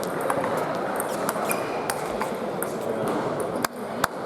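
Table tennis balls clicking sharply off bats and tables over a steady murmur of a large hall, with a quick run of clicks in the last second.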